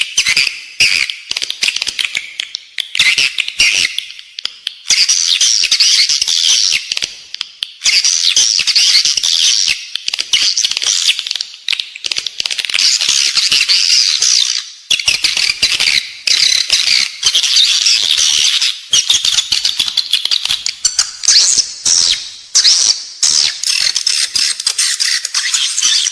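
Edible-nest swiftlet calls: a dense, high-pitched twittering chatter with rapid clicks, breaking off briefly every few seconds. This is a lure call track for drawing swiftlets into a nesting house.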